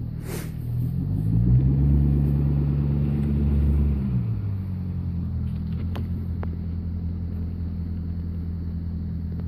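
Corvette C6's V8 engine revving: it climbs about a second in, is held up for a couple of seconds, then drops back around four seconds to a steady idle. A single sharp click is heard near six seconds.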